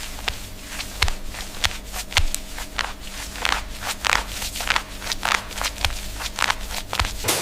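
Sharp clicks and knocks, about three a second and uneven in strength, over a steady hum of factory machinery.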